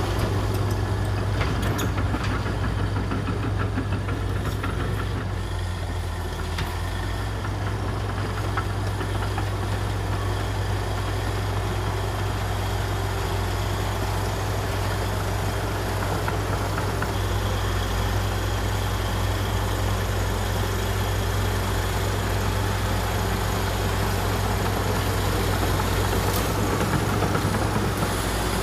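Komatsu D61EX bulldozer's diesel engine running steadily with a deep low hum.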